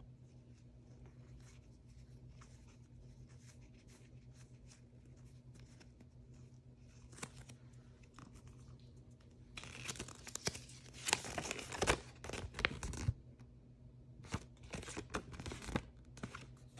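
Blind-bag packaging being torn open and crinkled by hand. Light rustling and crackling at first, then a run of loud tearing and crinkling from about ten seconds in, with more near the end.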